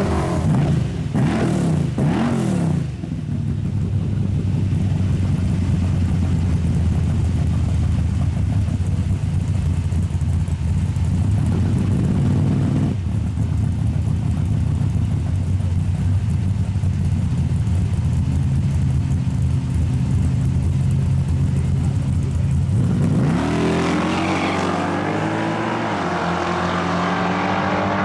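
High-performance drag-racing engine blipped up and down a few times, then held at a steady loud drone. About 23 seconds in, the revs climb sharply in repeated rising steps as the vehicle accelerates hard.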